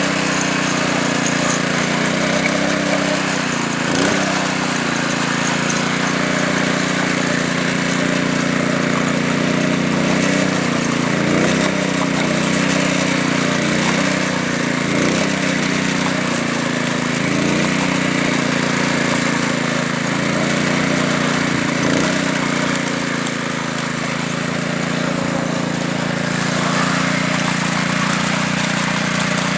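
Small engine of a walk-behind power trowel running steadily as it smooths concrete, its pitch wavering a little up and down in the middle stretch, with a couple of faint knocks.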